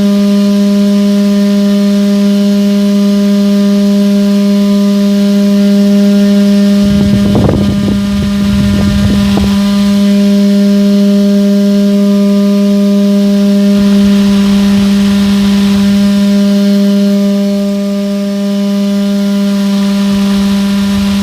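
Small electric motor of a home-made toy tractor running a fan at a steady speed, giving a constant buzzing hum. A few brief rushing bursts come in about seven to nine seconds in.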